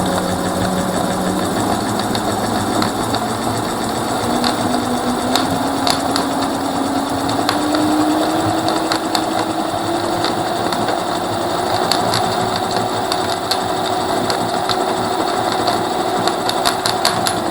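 Mercane WideWheel electric scooter's rear motor running, its whine climbing slowly in pitch, under a constant rattle with scattered clicks. It sounds terrible, as if something loose were spinning around inside the motor: a fault in a brand-new scooter.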